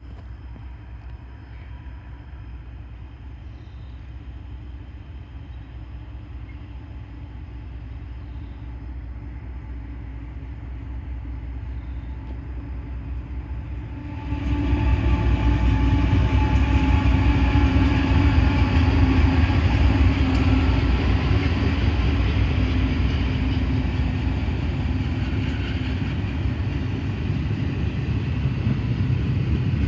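Freight train with diesel locomotives: a low rumble that builds slowly, then becomes much louder and fuller about halfway through as the train comes past, with a steady engine drone and rail noise.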